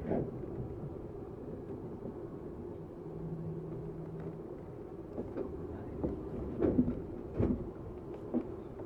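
Interior of a Tokyu 7700-series commuter car standing at a station: a steady low hum of the car's equipment and air conditioning. Scattered knocks and clunks come from about five seconds in, the loudest a pair about a second apart near the end.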